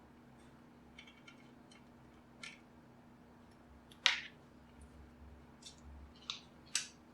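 Scattered sharp clicks and taps of small tools and plastic parts being handled, with one louder click a little past the middle.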